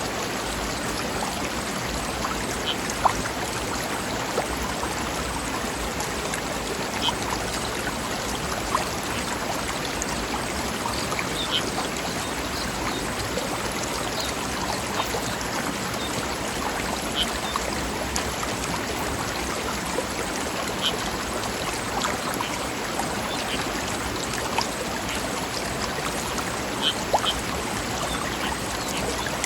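Mountain stream flowing steadily over rocks, with small splashes and drips scattered through the rushing water.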